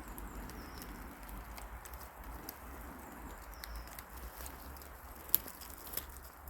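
Forest ambience: a steady soft rushing with a low rumble underneath, short high chirps now and then, and scattered small clicks, with one sharper click a little past five seconds.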